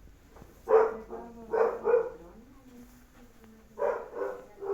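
Dog barking: two bursts of three sharp barks, about three seconds apart.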